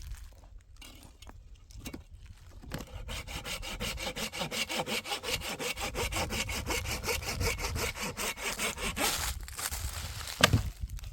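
Hand saw cutting wood in quick, even strokes, starting about three seconds in and stopping near nine seconds, followed by a single sharp knock.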